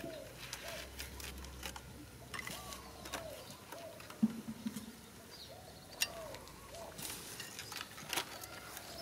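A bird calling over and over in short rising-and-falling notes, with scattered clicks and a knock about four seconds in as a rope is handled over a woven bamboo basket trap.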